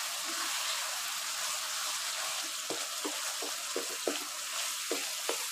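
Chicken and tomato frying in ghee in a wok, sizzling steadily now that the water has cooked off, while a wooden spatula stirs through the pieces. From about halfway there is a series of light knocks of the spatula against the pan.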